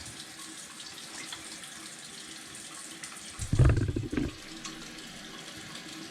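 Water running steadily from a tap into a bathtub, with one brief louder sound about three and a half seconds in.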